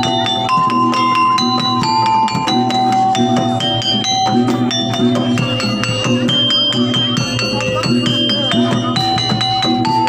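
Live jaranan accompaniment: a gamelan-style ensemble with struck metal keyed instruments and drums playing a quick, continuous melody.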